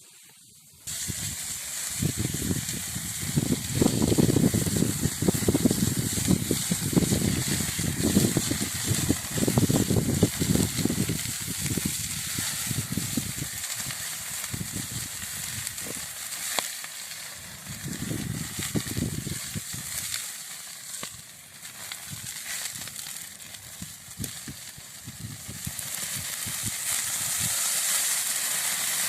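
Wood fire burning in a fireplace: logs crackling with scattered sharp pops over a steady hiss, and a low rushing that swells and fades. The sound cuts in suddenly about a second in.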